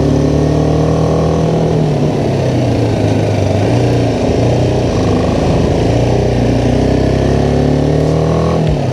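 BMW G310R's single-cylinder engine pulling uphill on a mountain road. Its pitch drops about two seconds in, sags near the middle, then rises again as the rider throttles through the bends. It cuts off abruptly right at the end.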